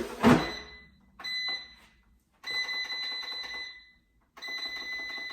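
A loud thud as the air fryer basket is pushed in, then the air fryer's control panel beeping: a short high electronic tone, then two longer steady tones as the fryer is set.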